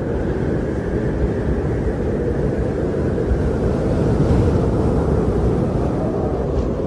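Wind sound effect: a steady low rushing of wind, swelling slightly past the middle.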